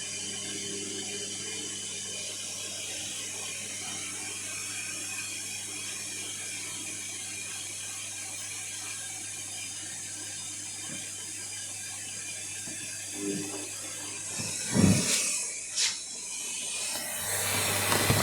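Washing machine taking in water for its rinse: a steady hiss of water with a low mains hum. A couple of sharp knocks come near the end, then a louder rush of noise.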